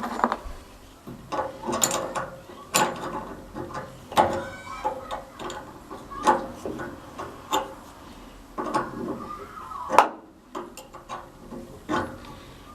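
Socket ratchet clicking in short spells, mixed with irregular knocks and clanks of metal tools and parts, as fittings on a gas water heater are tightened.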